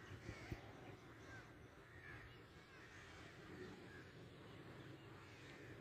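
Near silence with faint bird calls repeating every second or so.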